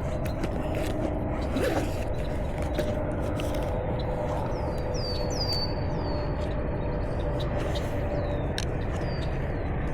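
Steady rush of a shallow river flowing over riffles, with a bird giving repeated short downward-slurred chirps, a cluster of them about five to six seconds in. A faint steady hum and a few small clicks lie underneath.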